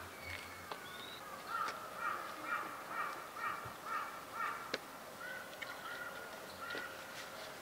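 A bird calling: a quick run of about seven short calls, roughly two a second, followed by a few weaker calls.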